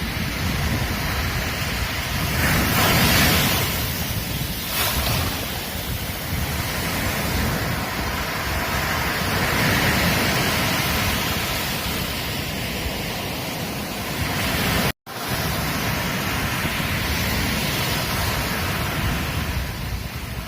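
Ocean surf washing onto a beach, a steady rush that swells with breaking waves about three seconds in and again around ten seconds. The sound cuts out for an instant about fifteen seconds in, then resumes.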